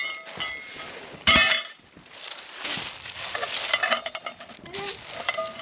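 Metal-on-metal clanks that ring briefly, one right at the start and a louder one about a second in, followed by rattling and clinking of metal parts being handled.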